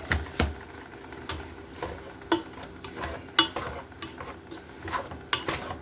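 A utensil stirring seasoned browned ground turkey and chicken in a pot, with irregular knocks and scrapes against the pot several times a second.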